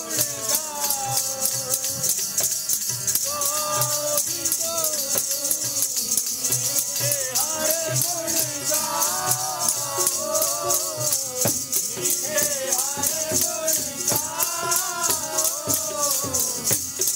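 Kirtan: voices singing a devotional hymn over a fast, steady rhythm of shaken, jingling percussion.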